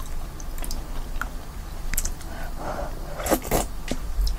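Close-up chewing and eating sounds, with scattered short clicks from a wooden spoon in a bowl of soup, a few sharper ones about three and a half seconds in.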